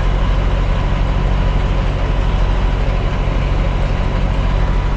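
Heavy truck diesel engine idling steadily, a constant low running sound with no change in speed.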